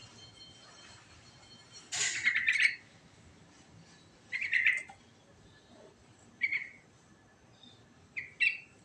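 Sooty-headed bulbul (trucukan) singing in short, quick chirping phrases, four in all, the first, about two seconds in, the longest and loudest.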